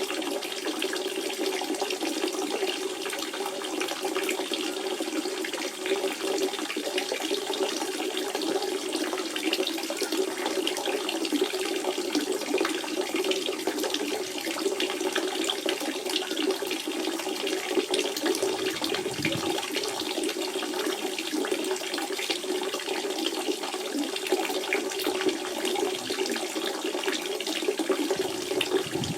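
Spring water running and splashing in a steady stream, a continuous trickling rush with a strong low gurgle.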